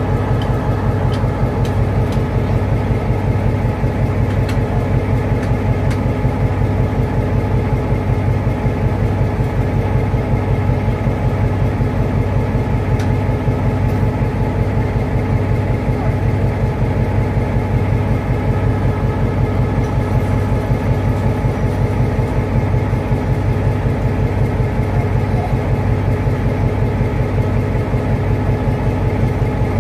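Awam Express passenger train's steady running drone: a constant low hum with a stack of steady overtones above it, unchanging throughout.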